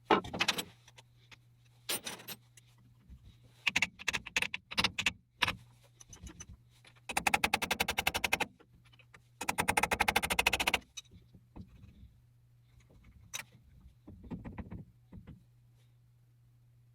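Metal parts clinking and clattering, with two rapid rattling runs of about a second and a half each near the middle, over a steady low hum.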